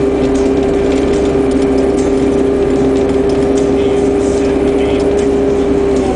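Takeuchi compact track loader's diesel engine running at a steady speed, heard from inside the cab as a constant, loud hum with a steady whine.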